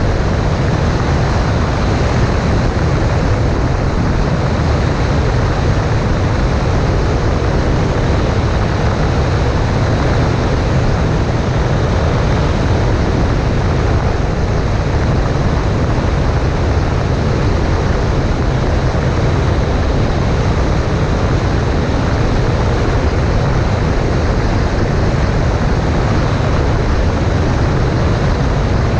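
Cessna 140A in flight: the steady drone of the engine and propeller mixed with a heavy, even rush of wind on the microphone.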